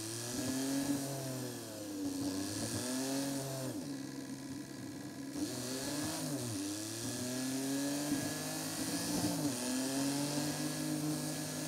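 Seat Ibiza's engine under way, sped up threefold, its pitch repeatedly rising with acceleration and dropping at each gear change, over a steady hiss of wind and road noise.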